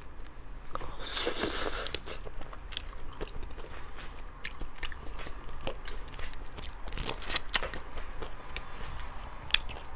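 A person eating shellfish close to the microphone: biting and chewing with many small sharp clicks and crunches, and a short louder noisy burst about a second in.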